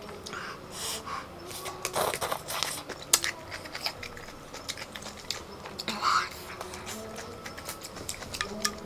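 Close-miked eating: a bite into a piece of food from a bowl of spicy noodle soup, then chewing with scattered wet mouth clicks and smacks.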